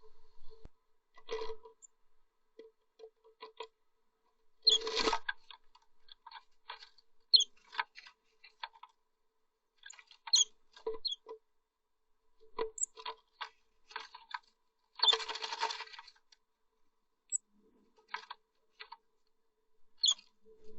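Blue tits moving about inside a nest box: claws scratching and tapping on the wood in irregular clicks, with two longer rustling bouts about five and fifteen seconds in, and a few short high chirps.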